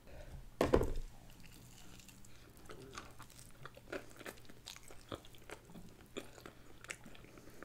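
A bite into crispy KFC fried chicken about half a second in, the loudest sound, followed by chewing with many small, scattered crunches and crackles of the breading.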